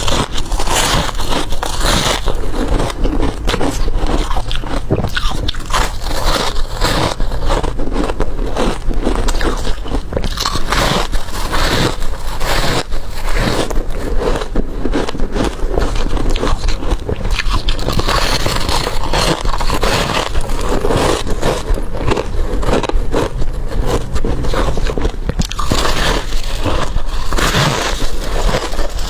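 Teeth biting into hard crushed ice: dense, irregular crunching and cracking that goes on without a break.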